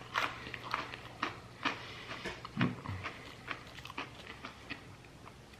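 Crunching and chewing of crisp, airy freeze-dried fruit pieces: irregular short crackles, a few a second, with a dull low bump about two and a half seconds in.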